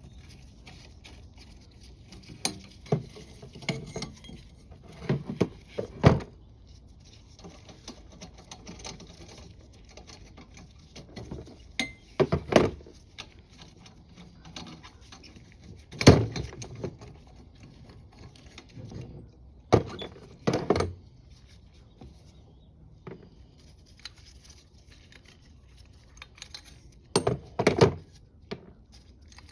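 Metal clamps being undone and stainless steel sections and gaskets being pulled apart and set down: scattered clinks, clanks and knocks of metal parts, some of them sharp, with short handling rattles between.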